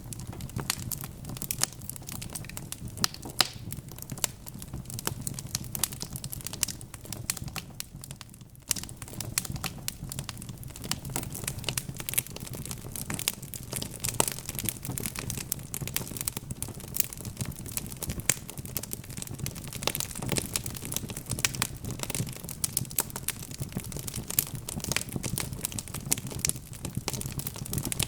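Wood fire crackling, with many small irregular pops and snaps over a steady low rumble, easing briefly about eight seconds in.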